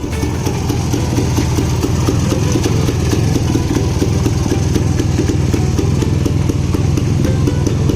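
Restored 1968 Royal Enfield Crusader's 175cc two-stroke Villiers engine running steadily at idle.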